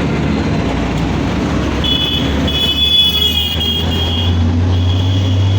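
City road traffic: a steady low engine rumble that rises slightly in pitch about four seconds in, with a high steady tone sounding twice over it.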